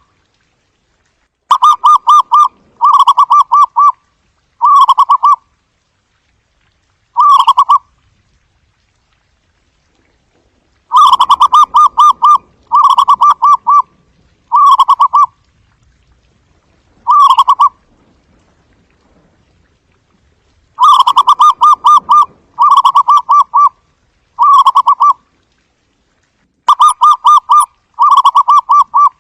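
Zebra dove cooing: phrases of quick staccato notes, each about a second long, sung in bouts of up to four phrases with a few seconds of silence between bouts.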